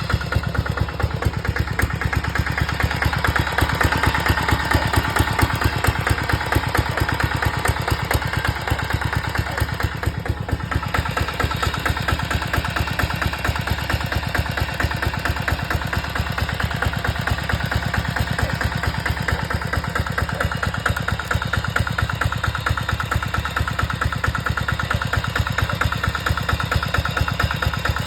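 Motocultor (two-wheel walking tractor) engine running steadily, with a fast, even chugging beat.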